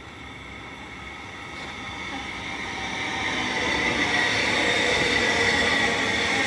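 Electric suburban train approaching and running past close by, growing louder over the first four seconds and then holding steady, with a high whine over the rumble of the wheels.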